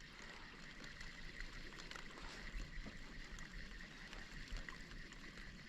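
Faint water sounds around a fishing kayak on a calm sea, with a faint steady high hum and a few small ticks.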